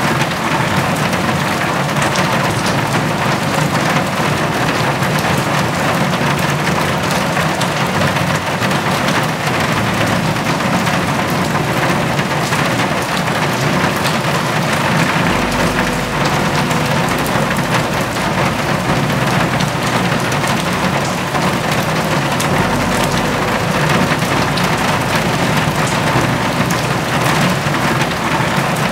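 Steady rain with many separate drop splashes, a dense even hiss.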